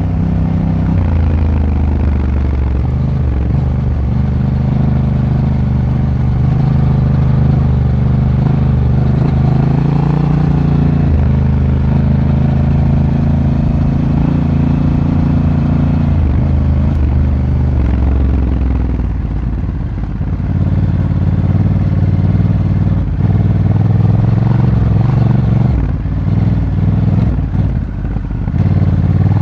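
Honda Africa Twin's parallel-twin engine running under way, heard from on board. Its pitch shifts in steps with throttle and gear changes, easing off around twenty seconds in and briefly again near the end.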